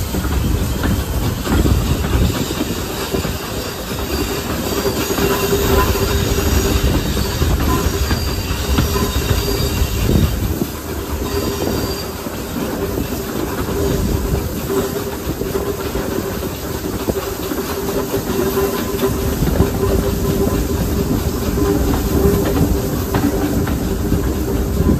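Steam train hauled by a pannier tank locomotive running along the line: a continuous rumble of wheels and carriages with a steady squealing tone and some steam hiss.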